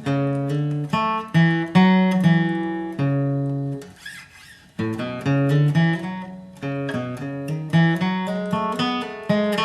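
Acoustic guitar flatpicking a single-note bluegrass lead line at a brisk pace, one plucked note after another, with a short break about four seconds in before the run picks up again.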